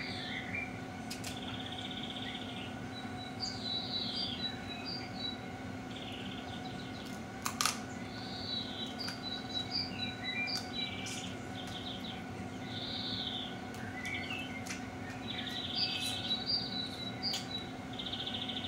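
Songbirds chirping and singing, with repeated short chirps and buzzy trills, over a steady low hum. A few sharp clicks cut in, the loudest about seven and a half seconds in.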